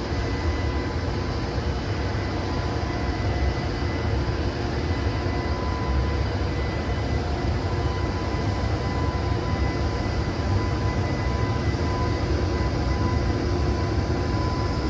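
EH200 'Blue Thunder' electric locomotive's cooling blowers running steadily while the locomotive stands still, a constant rushing hum with a thin, high whine over it.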